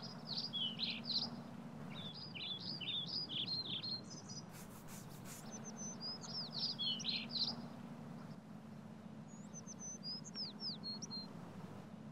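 Small birds chirping in four or five quick runs of short, downward-sweeping notes, over a steady low hum.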